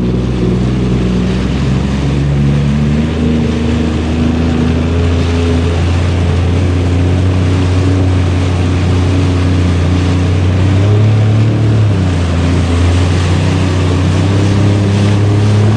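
Jet ski engine running steadily over water, with splashing and wind noise over it; the engine note lifts briefly about eleven seconds in.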